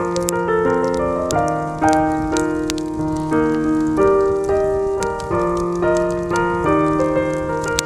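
Soft jazz piano music, with sharp crackles and pops from a wood campfire scattered over it.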